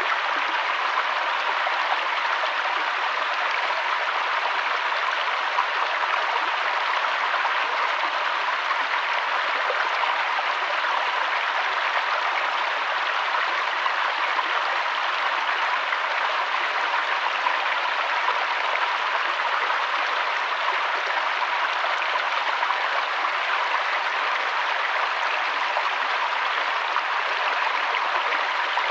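River water flowing steadily: an even, unbroken rushing hiss with no change in level.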